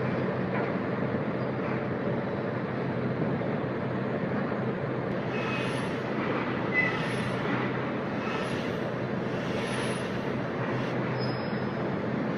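Heavy machinery running with a steady low hum and mechanical noise. In the second half come about four short squealing, clanking sounds, roughly one every second and a half.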